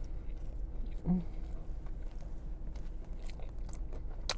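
A person chewing a mouthful of sandwich with wet mouth clicks and smacks, a short closed-mouth "mm" about a second in and a sharp click near the end, over the steady low hum of the car's engine running.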